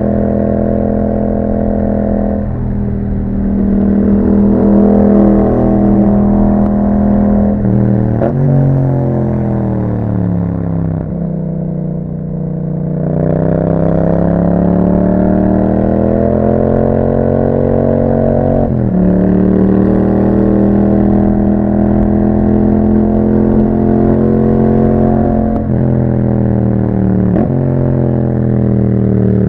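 Yamaha MT-07's parallel-twin engine through an Akrapovic exhaust, under way. The engine note rises and falls, with sudden drops in pitch at several gear changes. It eases off and falls in pitch about ten seconds in, then pulls away again, rising.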